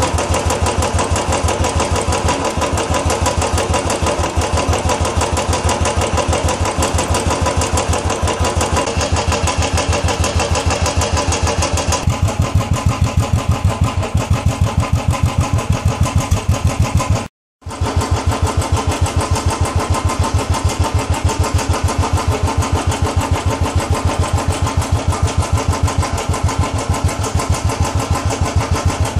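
Royal Enfield Classic 350's single-cylinder engine idling with a steady, even beat. The sound drops out for a split second about two-thirds of the way through.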